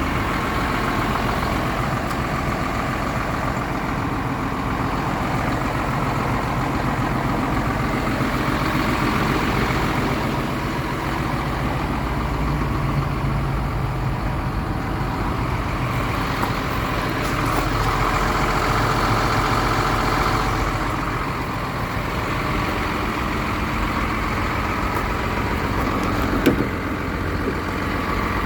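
Hino truck's diesel engine idling steadily.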